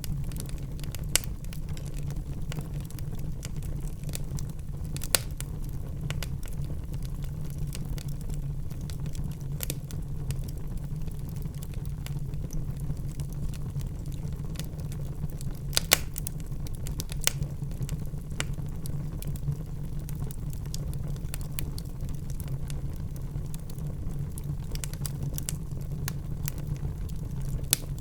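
Wood fire burning in a fireplace with a steady low rumble, broken by irregular sharp crackles and pops, the loudest about a second in, around five seconds in and near sixteen and seventeen seconds in.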